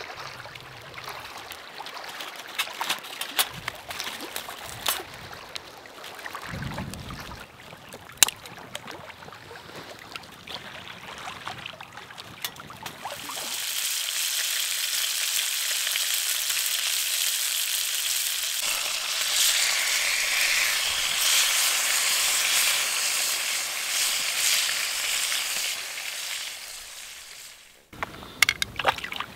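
Scattered clicks and knocks, then from about halfway through a steady sizzle of patties frying in a pan. The sizzle cuts off suddenly near the end.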